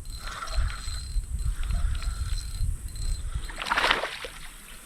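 Water splashing at the side of a fishing kayak, over a steady low rumble, with one louder splash just before the end.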